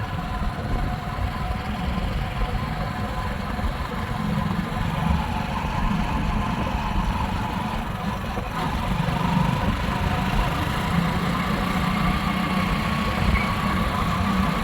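Motorcycle engine running steadily while being ridden along a road, a continuous hum that grows slightly louder through the stretch.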